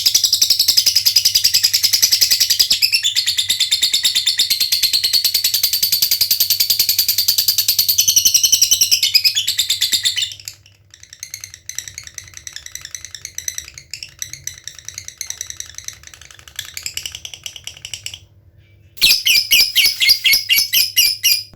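Lovebird chattering in a long, very rapid high-pitched trill (the 'ngekek' call) for about ten seconds, then softer, sparser ticking chatter, a brief pause, and a loud rapid burst near the end that stops abruptly.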